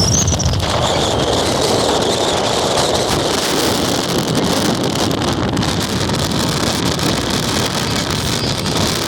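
Windstorm gusts blowing hard and buffeting the microphone, a loud, steady rushing roar.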